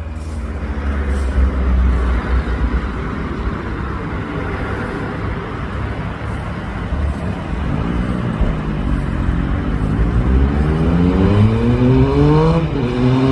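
Benelli Tornado Tre 900's inline three-cylinder engine running, then accelerating from about two-thirds of the way in with a steadily rising pitch. The pitch drops sharply once near the end and then climbs again.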